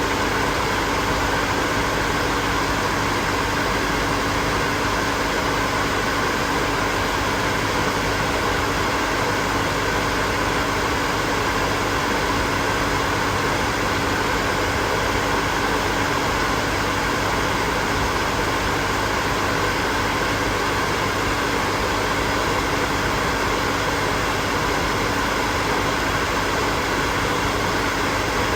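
Hair dryer running continuously: a steady rush of blown air over an even motor hum.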